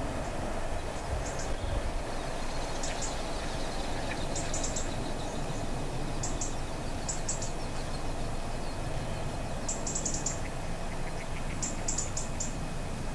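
Small bird chirping in short, high clusters of two to four notes, repeated every second or so, over a steady low rumble.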